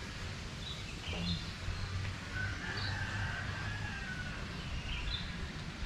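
Birds calling: several short high chirps and one longer call of about two seconds in the middle, over a low background rumble.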